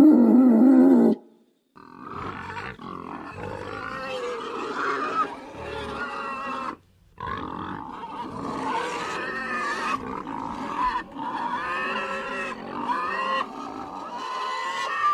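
Pigs grunting and calling, in separate recordings cut together: a loud low grunting passage in the first second, then after a short silence higher, pitch-bending pig calls that carry on, broken by another brief silent gap about seven seconds in.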